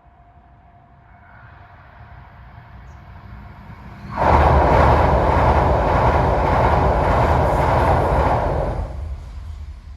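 Yamagata Shinkansen train passing close at high speed. The rumble builds gradually, jumps sharply to a loud, steady noise about four seconds in, holds for about four and a half seconds, then drops away as the train goes by.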